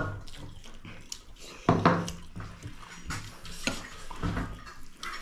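Dishes and cutlery clinking and scraping during a meal, with short knocks scattered through and a couple of louder ones about two seconds in.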